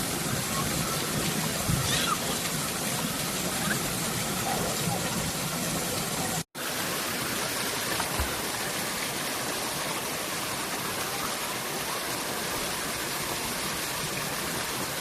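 Steady rushing water noise, even and unbroken apart from a brief dropout about six and a half seconds in.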